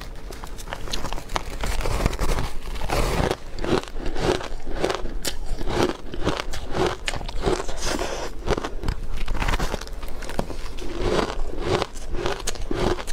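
Ice being bitten and chewed close to the microphone: a steady run of crisp crunches, about two a second.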